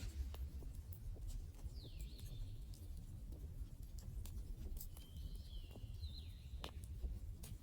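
Wood campfire crackling, with irregular sharp pops over a low rumble. A thin high whistling tone sounds twice, once briefly about two seconds in and once held for over a second from about five seconds in.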